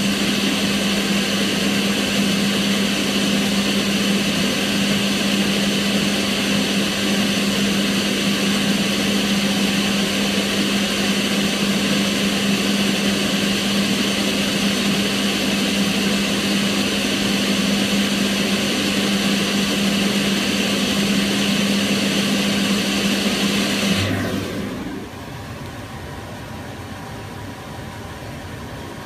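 Kitchen range hood fan running steadily, a rushing air noise with a steady hum. About 24 seconds in the hum stops and the sound drops within a second to a much quieter steady rush.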